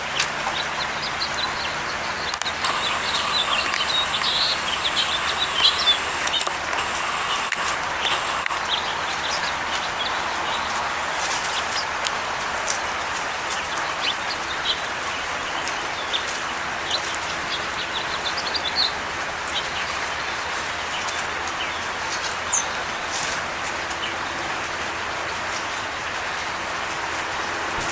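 Songbirds chirping and calling in short, high notes, busiest in the first third, over a steady background hiss.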